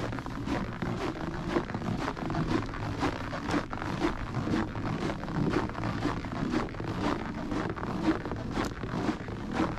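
Footsteps crunching at a walking pace, about two steps a second, over a steady rushing background.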